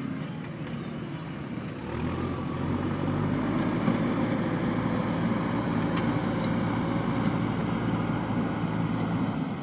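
JCB backhoe loader's diesel engine running, picking up load about two seconds in, holding there, then easing off near the end.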